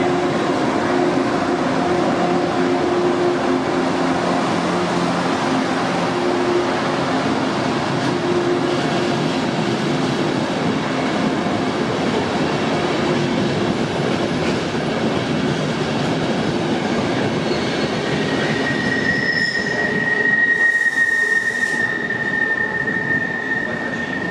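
Train running through a station at the platform: a steady rumble with a hum from its drive in the first few seconds. Near the end a steady high-pitched wheel squeal sets in, with a brief hiss shortly after it starts.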